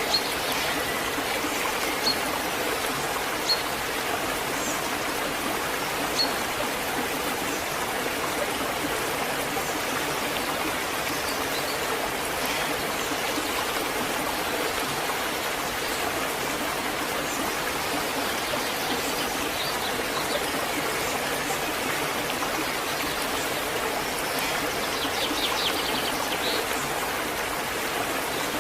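Waterfall: a steady rush of falling water. A few short, high, sharp chirps sound over it near the start, and some fainter high calls come near the end.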